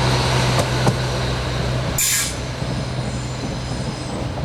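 A train at a station platform, with a steady low hum from its engine or traction equipment and a few clicks. About two seconds in comes a short burst of air hiss, and the hum eases off after it.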